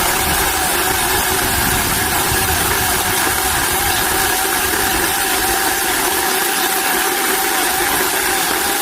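Chainsaw running steadily at a constant speed, a loud even whine that holds its pitch with a slight wobble.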